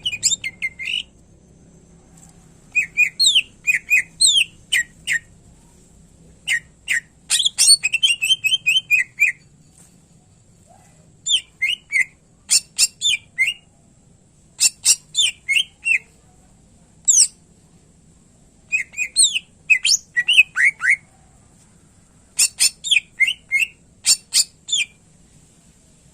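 Cucak ijo (green leafbird) singing in short, loud bursts of sharp whistles and chips, the notes sliding quickly up and down, phrase after phrase with pauses of a second or so between them.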